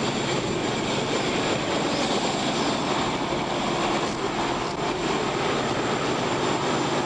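Steady rushing noise of vehicles and road traffic, with no distinct events.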